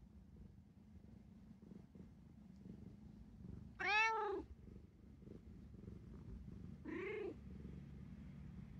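Domestic cat meowing twice: a loud call rising then falling in pitch about four seconds in, then a shorter, softer one near seven seconds, over a low steady rumble.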